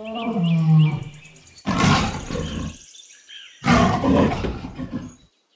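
Lioness calling: a short low call, then two loud roars about two seconds apart.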